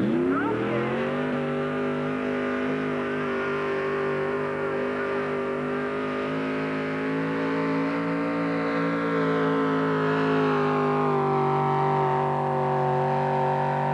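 Modified 4x4 pulling truck's engine revving up hard at the launch, then held at high rpm, running at a nearly steady pitch under load as it pulls the sled down the track.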